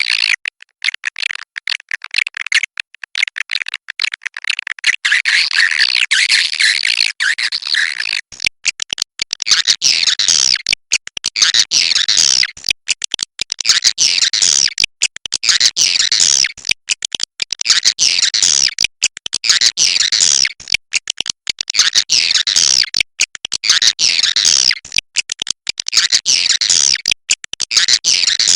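Swiftlets twittering: dense, rapid high-pitched chirps, in a loud, unbroken chatter that settles about eight seconds in into a pattern repeating roughly every two seconds. It is a swiftlet 'inap' (roosting) call of the kind played to draw swiftlets into a nesting house.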